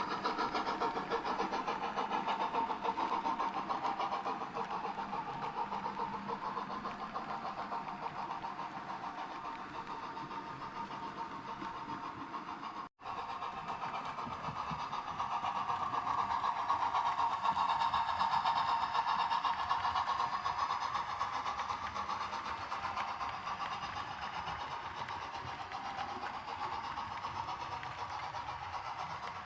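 Sound-fitted 00 gauge model diesel locomotive running, its onboard speaker playing a steady diesel engine sound. The sound drops out for an instant about 13 seconds in.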